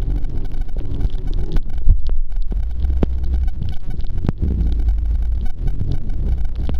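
Jet ski engine running under way, with heavy wind buffeting on the microphone and scattered sharp taps.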